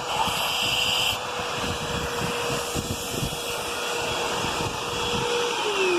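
Hoover WindTunnel Whole House Rewind upright vacuum cleaner running with a steady motor whine. Near the end the whine falls in pitch as the motor is switched off and spins down.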